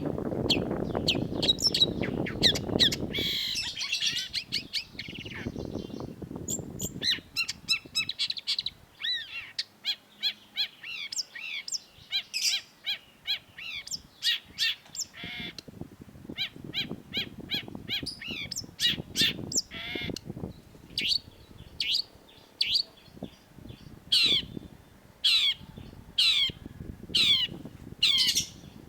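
Long-tailed shrike singing a rapid, varied song of sharp chirps and quick trills, ending in a series of separate downward-sweeping calls about one a second. A low background rumble sits under the first few seconds.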